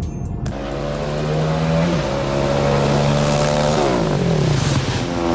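A vehicle engine revving: it holds a steady pitch, drops off about four seconds in, then climbs again near the end.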